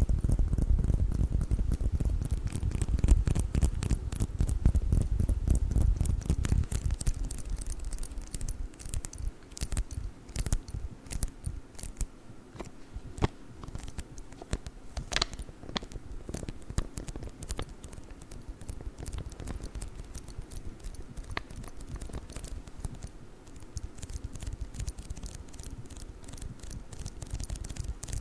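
Sticky lint roller worked close to the microphone: a dense low rubbing rumble with fine crackle for the first several seconds, then scattered sharp sticky crackles and clicks as the tape pulls away.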